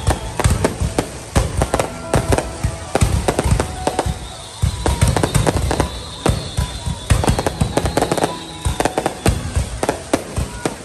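Fireworks going off in quick, irregular succession, a dense run of sharp bangs and crackles, with music playing underneath.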